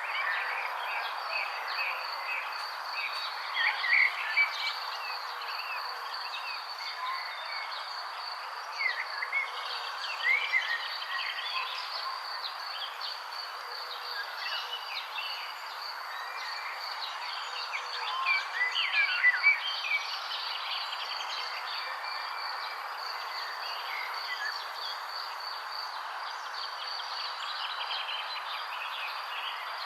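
Songbirds chirping in many short, quick calls, with louder flurries a few times, over a steady high-pitched buzz and a constant background hiss.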